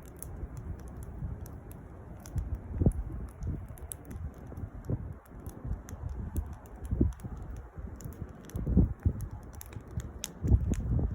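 Campfire crackling: irregular sharp pops and snaps of burning wood over a low rumble.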